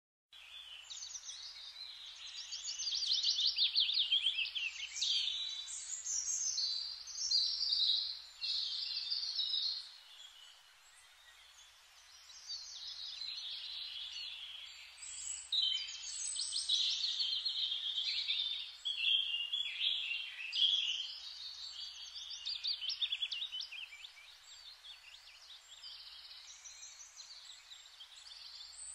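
Small birds chirping and trilling, several calls overlapping in a continuous chorus that swells and fades.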